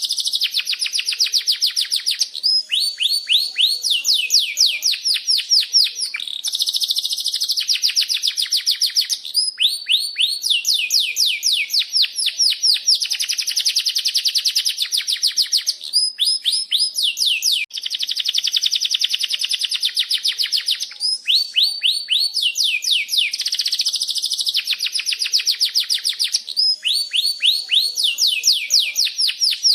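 Domestic canary singing a long, unbroken song of fast trills: rapidly repeated notes held in runs of one to three seconds, each run switching to a different note type.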